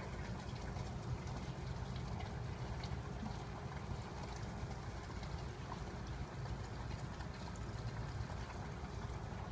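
Steady running and trickling of water draining from a reef tank's overflow into the refugium sump, over a low steady hum.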